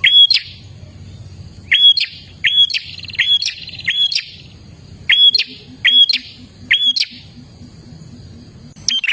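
Prinia (prenjak) calling: loud, sharp hooked notes repeated in quick runs of three to five, with short pauses between runs.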